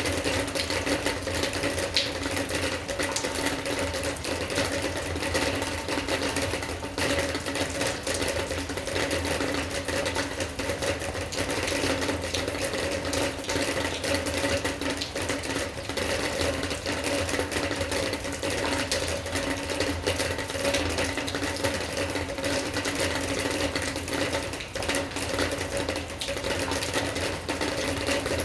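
Rain falling steadily, a dense, fast patter of drops, with a steady hum underneath.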